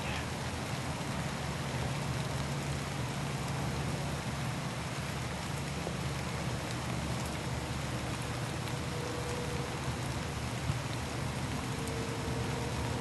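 Steady rain falling, heard as an even hiss through the camera's microphone, over a low steady hum.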